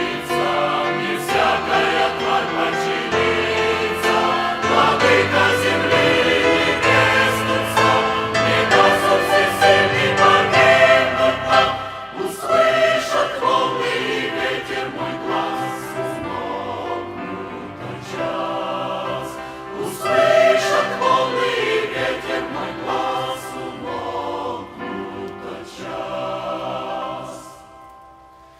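A choir singing a Christian hymn with musical accompaniment, deep held bass notes under the voices in the first part. Near the end it drops away to a brief quiet pause.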